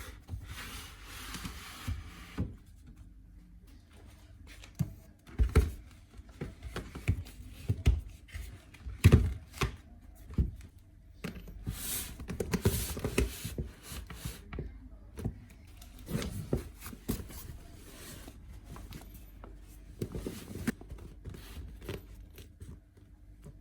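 Irregular knocks, thuds and scrapes of objects being handled, with a short hissing rush near the start and another about twelve seconds in.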